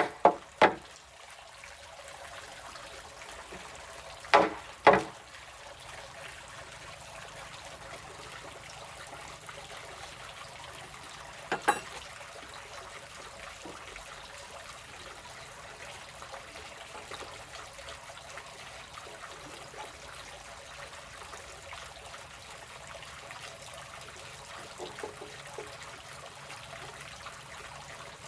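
Steady trickle of running water, with sharp strikes on wood: one just after the start, two in quick succession about four and a half seconds in, and one more near twelve seconds.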